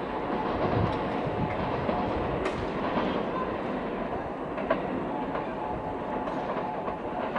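JR West 321 series electric commuter train rolling slowly over station pointwork, its wheels rumbling and clacking on the rails with occasional sharp clicks and a faint steady whine.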